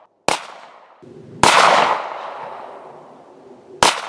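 Three 9mm pistol shots from a Glock 19, about a quarter second in, about a second and a half in, and near the end, each trailing off in echo. The middle shot is the loudest and rings on the longest.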